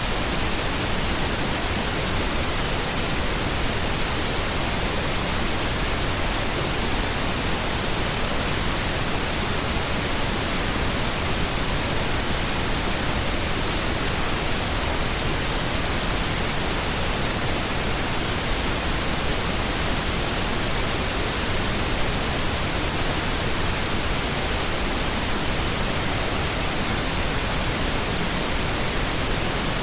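Steady, unbroken pink noise: an even hiss-like rush across the whole range, without tones or changes.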